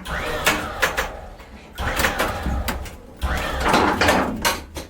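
Irregular creaking and scraping as the fiberglass motor-home roof is pulled loose from the body by the crane, with some bending squeaks, over a steady low rumble.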